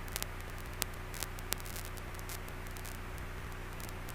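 Faint steady hiss and low electrical hum, with a few soft clicks about one and one and a half seconds in.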